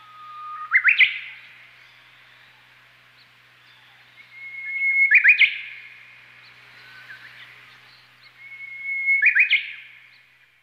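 A songbird calling three times, about four seconds apart: each call is a long held whistle that breaks into a few quick rising notes. A faint steady hiss lies underneath.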